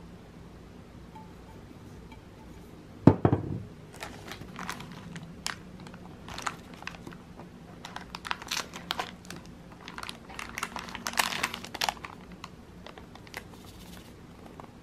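A single heavy thump, then about eight seconds of crinkling, rustling and quick light clicks from things being handled close by.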